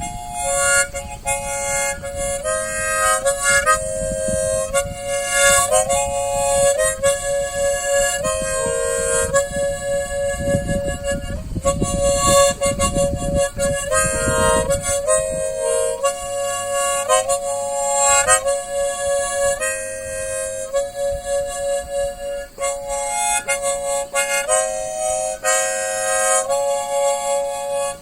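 Harmonica playing a slow melody of held notes, often sounding two or three reeds together as chords. A low rumble runs underneath for the first half and dies away about halfway through.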